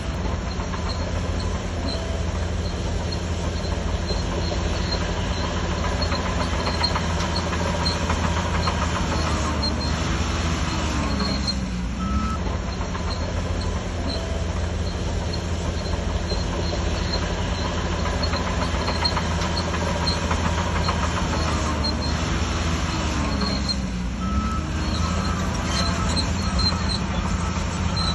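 Shantui DH17C3 crawler bulldozer's diesel engine running steadily under load, with the steel tracks clanking and squealing. The engine pitch dips briefly twice, about twelve seconds apart.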